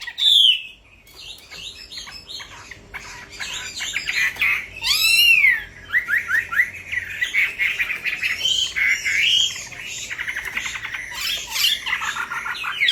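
Wambi bird song used as a lure and training recording: a busy stream of varied whistles, chirps and rapid chattering trills, with a loud arching whistle about five seconds in.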